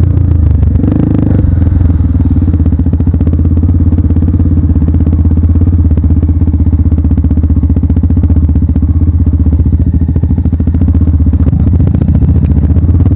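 Trail motorcycle engine running steadily close to the microphone, with a fast, even pulsing and some rattle.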